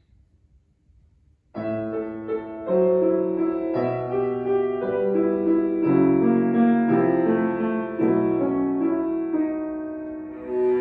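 A piano plays a slow, lyrical introduction in sustained chords and melody, starting about a second and a half in after near silence.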